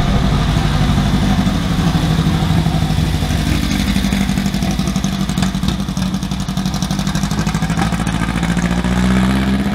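VW Brasilia's rear-mounted air-cooled flat-four engine running at low revs as the car rolls slowly past.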